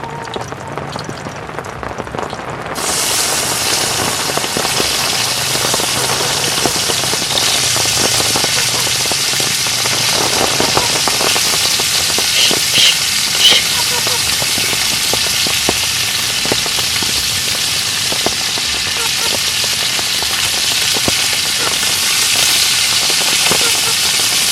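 Beef rib steak frying in a hot pan: a loud, steady sizzle full of small crackles that starts suddenly about three seconds in.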